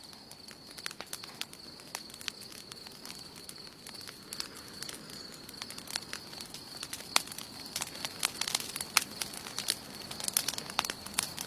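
Wood campfire burning, crackling with irregular sharp pops that come thicker and faster near the end, over a faint steady hiss. A steady high-pitched whine runs underneath.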